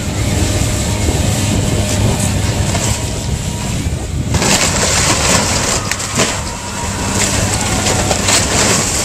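Heavy demolition machinery working on the building: an engine runs steadily, and about four seconds in loud crunching and cracking of crushed, breaking debris sets in and continues.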